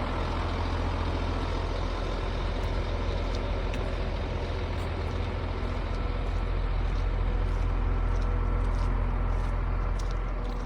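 Scania truck's diesel engine running steadily, a deep drone that grows a little louder about two-thirds of the way through and eases off near the end.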